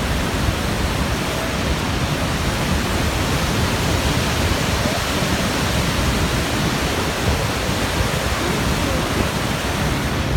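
Waterfall with a loud, steady roar of falling water.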